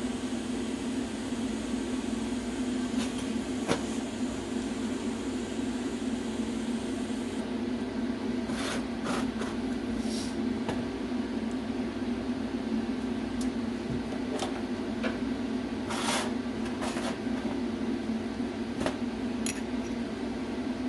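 A steady machine hum, with several short hissing bursts and a few clicks over it.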